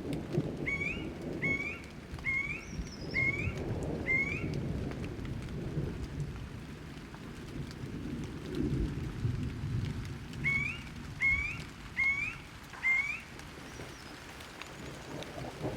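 Rain with low rolling thunder. Over it a bird repeats a short rising call note, about one every 0.7 s: five times in the first few seconds, then four times later on.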